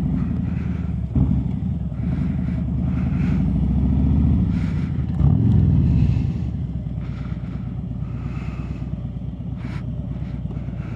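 Harley-Davidson Road Glide's V-twin engine running under way, building gradually, then a brief rev about five seconds in before settling to a lower, steady note.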